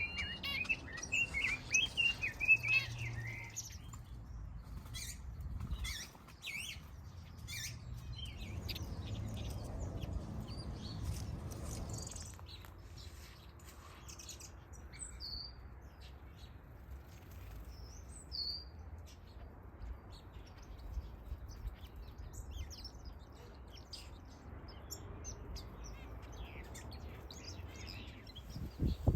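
Mixed flock of aviary finches and other small cage birds chirping and calling. A burst of busy warbling song comes in the first few seconds, followed by scattered short high chips and calls.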